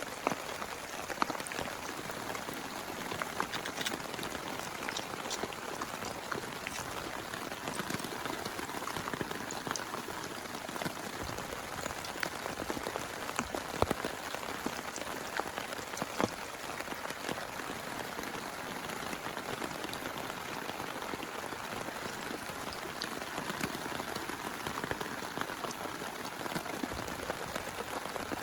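Heavy rain falling steadily, with many individual drops striking sharply.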